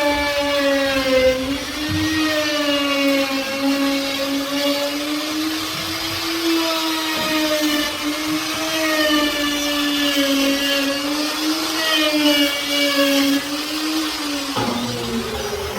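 Power tool's electric motor running with a high whine that wavers up and down in pitch as it works. Near the end it winds down while a second motor tone rises.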